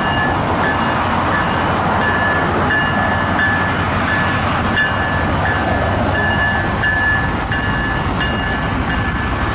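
CN GE ET44AC diesel locomotive running under power, notched up and pulling hard with a steady rumble. A bell dings about twice a second over it.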